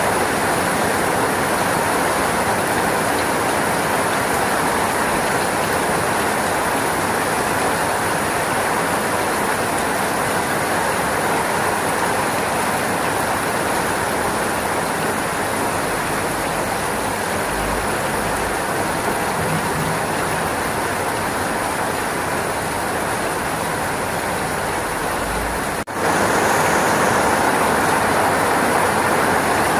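Steady, heavy rainfall: a loud, even hiss of rain. Near the end it drops out for a split second and then resumes.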